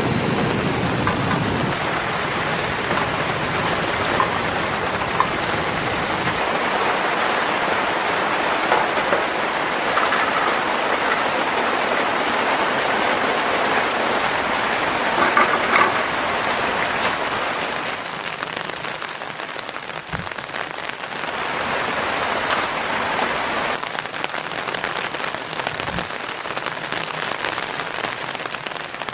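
Steady rain falling, an even hiss with a few louder drop clicks scattered through it. A low rumble stops about a second and a half in.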